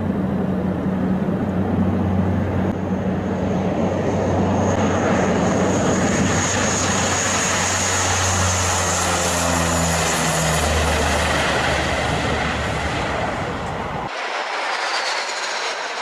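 Airplane engines running at high power during a takeoff. There is a steady low drone, and a rush and a high whine swell in the middle and then drop in pitch as the plane goes by. About fourteen seconds in, the sound changes abruptly to a thinner aircraft noise without the low drone.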